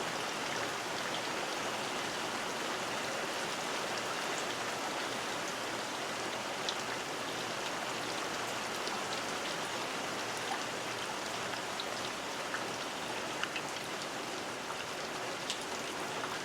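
Heavy monsoon rain falling steadily, with individual drops ticking on a shed.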